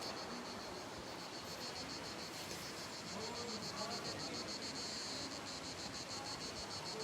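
Insects chirping high and steady in a fast, even pulse, many beats a second.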